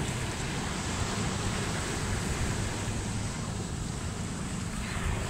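Ocean surf washing ashore, with wind buffeting the microphone as a steady low rumble.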